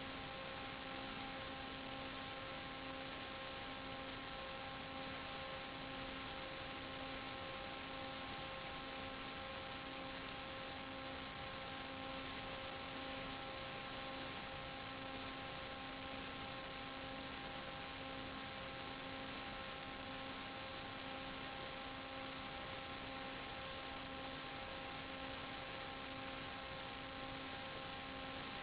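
Steady electrical hiss with a constant buzzing hum at one pitch and its overtones, unchanging throughout: the noise carried on the audio channel of a 5.8 GHz analog FPV video link.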